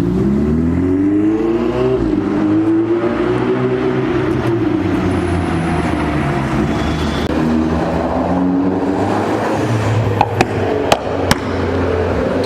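A car engine revving: its pitch climbs over the first two seconds, then it runs on at high revs, rising and falling. Three sharp cracks come close together near the end.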